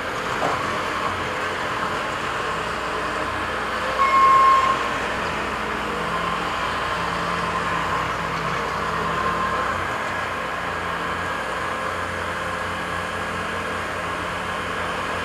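Diesel engines of heavy construction machinery running steadily. A single reversing-alarm beep sounds about four seconds in.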